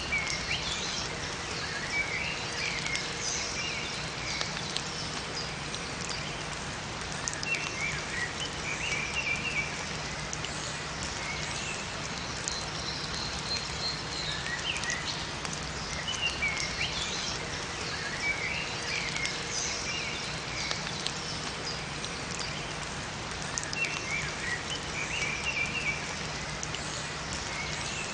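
Steady rain falling in a forest, with scattered drips, while small songbirds give short chirping phrases every few seconds.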